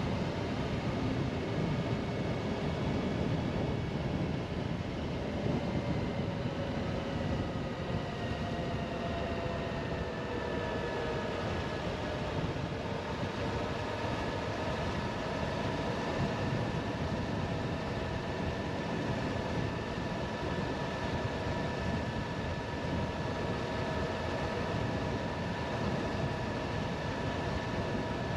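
Suzuki V-Strom 1050XT's V-twin engine running under way, its pitch rising gradually over the first several seconds and then holding steady at cruise, under a constant rumble of wind and road noise.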